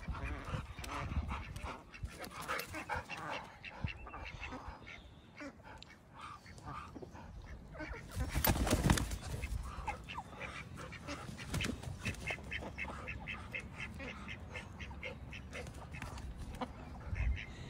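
A dog and free-ranging poultry (chickens and ducks) calling as they move around each other. There is a louder burst about halfway through, and in the second half a fast, even run of short calls, several a second.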